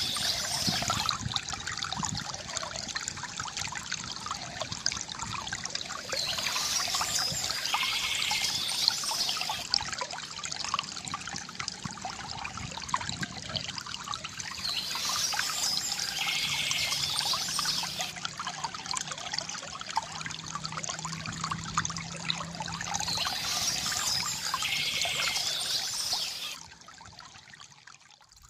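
Stream water trickling and splashing steadily, swelling and easing every several seconds, then dropping sharply in level near the end.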